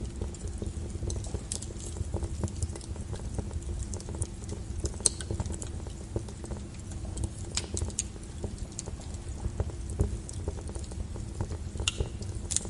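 Wood logs burning in a fireplace, crackling with irregular sharp pops over a low steady rumble of the flames; a few pops stand out louder, around five and ten seconds in and near the end.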